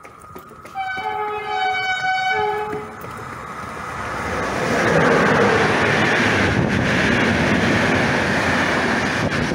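Passenger train horn sounding one blast of about two seconds, several notes at once, then the train passing close by, its noise building over a couple of seconds to a loud steady rumble of wheels on rails.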